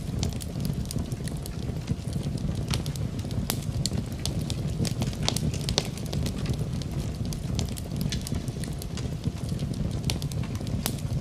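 Fire burning in a fireplace: a steady low rumble of the flames with scattered sharp crackles and pops.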